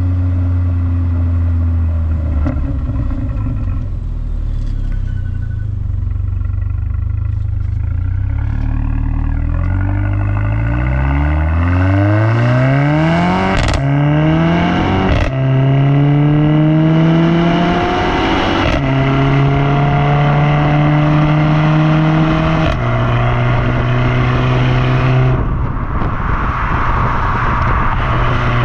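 Mercedes-AMG A45's turbocharged 2.0-litre four-cylinder engine, through its AMG performance exhaust, running steadily, then pulling hard with a rising note. A sharp crack at a gear change about halfway in, then steady running with a few more sudden steps in pitch as it shifts.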